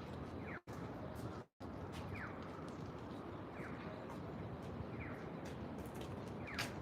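Outdoor park ambience: a steady background hum with a bird giving short, falling chirps about every second and a half, and a few sharp high ticks. The sound cuts out completely twice, briefly, in the first two seconds.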